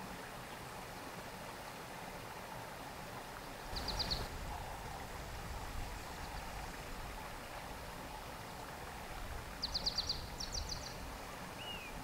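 Steady outdoor background hiss with a low rumble coming in about a third of the way through, while a bird sings short, rapid, high trills: once about a third in and twice near the end, followed by a short sliding note.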